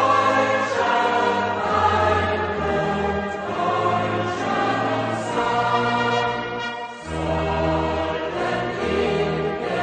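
Music: a choir singing with an orchestra.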